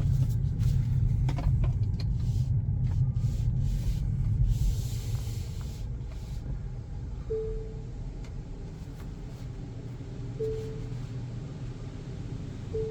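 Low rumble inside a Tesla's cabin at the car wash, with scattered clicks, louder for the first four seconds or so and then easing off, and a brief hiss about five seconds in. From about seven seconds, short soft musical notes come in a few times.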